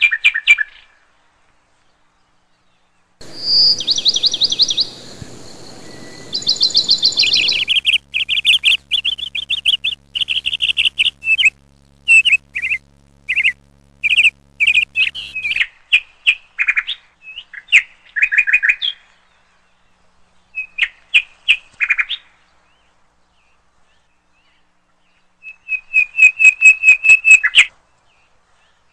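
Bird chirping: bursts of quick high chirps and short trills with pauses between them, a rapid trill a few seconds in and a fast run of chirps near the end.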